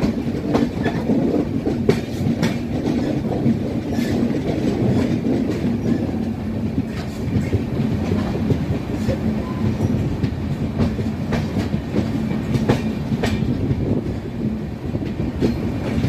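Passenger train coaches rolling past at low speed, their wheels giving a steady rumble on the track with irregular clicks and clacks over the rail joints.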